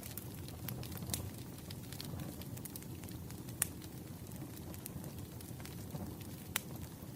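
Wood fire crackling: a steady low rumble of burning logs with scattered sharp pops, the loudest about three and a half seconds in and another near the end.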